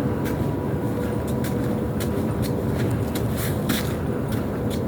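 Footsteps, about two a second, over a steady low rumble.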